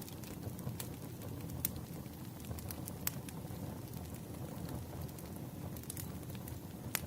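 Wood fire crackling, with scattered sharp pops at irregular moments over a low, steady background noise.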